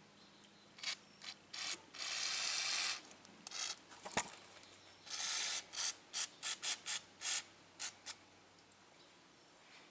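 Aerosol brake cleaner spraying in bursts: a spray of about a second, a shorter one, then a quick run of short squirts. A sharp click comes about four seconds in.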